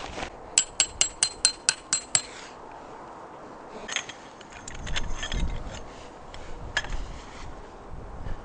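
A quick run of eight sharp, ringing metal taps, about five a second, then a few scattered knocks and clatters of gear being handled.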